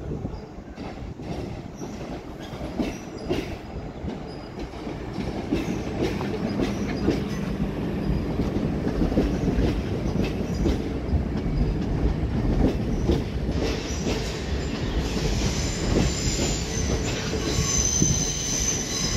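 Class 375 electric multiple unit running slowly into the platform: its wheels clicking over rail joints and points, getting louder as the carriages pass. From about two-thirds of the way in, high-pitched wheel squeal on the curved track.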